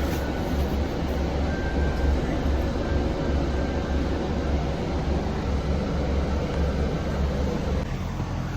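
Low engine and road rumble heard from inside a moving bus, with a throbbing low drone; the rumble eases slightly near the end.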